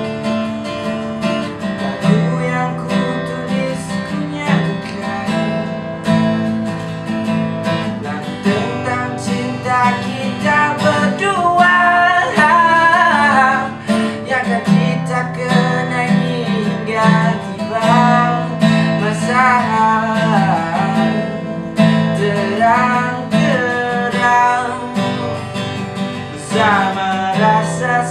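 A song performed to a strummed acoustic guitar, with a singing voice coming in partway through.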